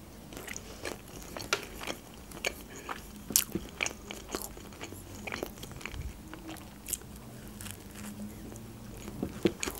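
Close-miked chewing of iskender doner meat: irregular soft mouth clicks and smacks, then a bite into a grilled cheese toast near the end.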